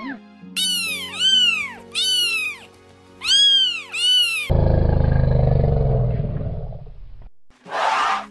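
Domestic cat meowing about five times, high arching calls in two quick groups, over soft background music. Then a loud, long, deep rumbling roar that fades out after about three seconds, and a short burst of sound near the end.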